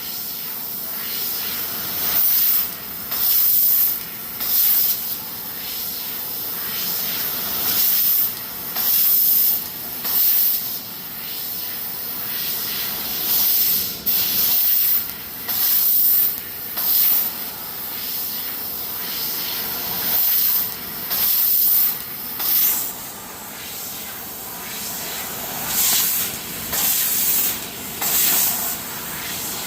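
CNC laser cutting machine cutting steel: a steady hiss with short, louder, high hissing bursts that come and go every second or so in irregular groups.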